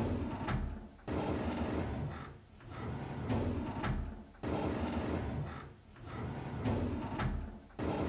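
A drawer sliding open over and over, about every three and a half seconds: a rumbling slide with a sharp click in each cycle and a sudden rise in level.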